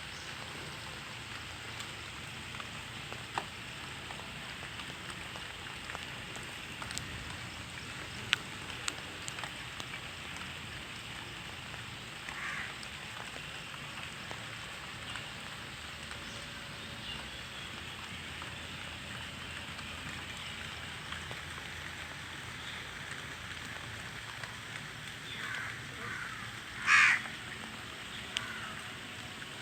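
Steady rain with scattered drips, and crows cawing: one caw about twelve seconds in, then a run of caws near the end, one of them much louder than the rest.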